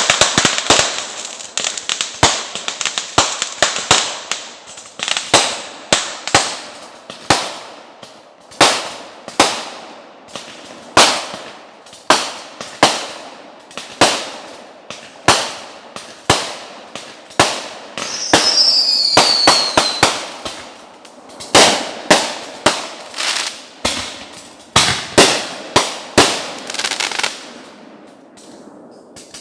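Fireworks going off close by. A rapid string of bangs at first, then a steady run of loud reports about one or two a second, with a falling whistle about two-thirds of the way through. The barrage stops shortly before the end.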